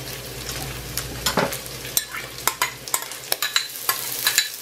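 Chopped chicken breast frying in butter in a stainless steel pot, a steady sizzle, as diced onion is tipped in from a bowl. A run of sharp clicks and taps sounds throughout.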